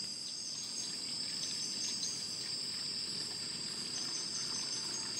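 Steady, unbroken chorus of night insects, a high, constant shrill.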